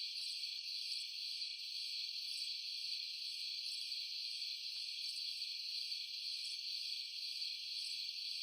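A steady, high-pitched night chorus of crickets or other insects.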